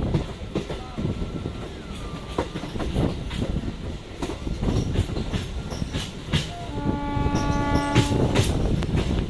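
Indian Railways train running over the rails, with a continuous rumble and repeated clicks of the wheels over rail joints. A horn sounds one steady note for about two seconds, starting near the end.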